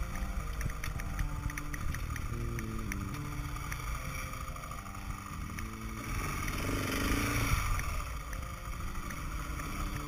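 KTM 690 Enduro's single-cylinder engine running at low speed on a sandy track, with wind noise on the microphone. It gets louder and rougher for a couple of seconds about two-thirds of the way through.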